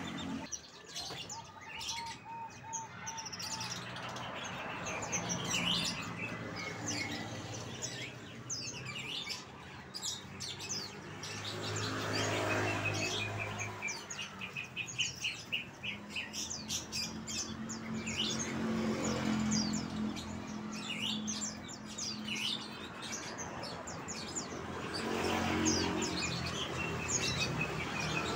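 Songbirds chirping and twittering in quick, repeated high notes and short trills throughout, over a steady low hum.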